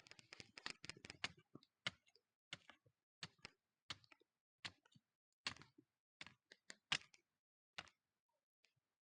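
A series of light clicks and taps, quick and crowded for about the first second, then single ones every half second to second.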